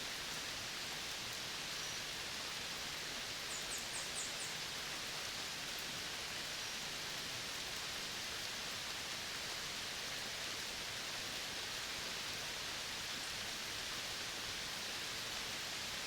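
Steady, even hiss of an outdoor natural soundscape, with a quick run of about five high chirps about four seconds in.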